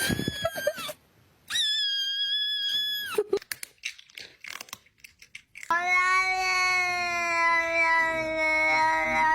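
A cat meows twice in a high voice, with a few light knocks after. Then, about two-thirds of the way in, it starts a long, drawn-out, lower yowl that holds one steady pitch.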